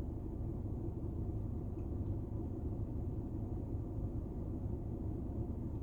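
Steady low road and engine rumble inside the cabin of a car driving on a highway.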